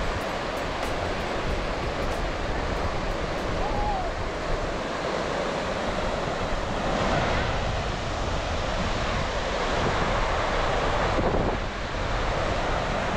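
Ocean surf washing onto a sandy beach in a steady wash, with wind buffeting the microphone.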